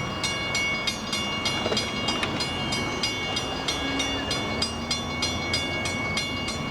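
Long Island Rail Road M7 electric train running, an even rumble with a rapid regular ticking of about four clicks a second and a steady high whine.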